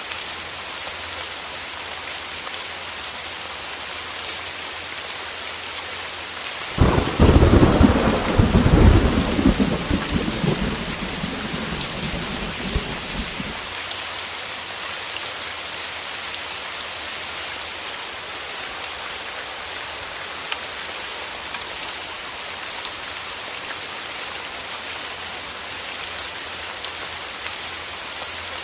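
Steady heavy rain, with a thunderclap about seven seconds in that breaks suddenly and rumbles on, dying away some seven seconds later.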